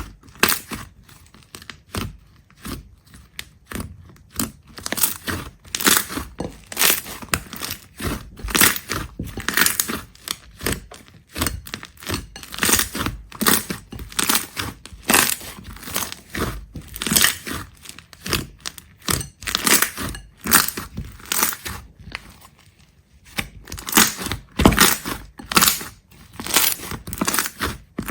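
Irregular crunching and crackling: many short, crisp bursts in quick succession, with a brief lull about three quarters of the way through.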